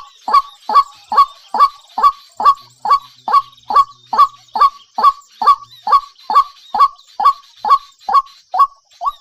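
A bird calling over and over, each call short and falling steeply in pitch, repeated very evenly two to three times a second and stopping near the end, with faint high twittering of small birds behind it.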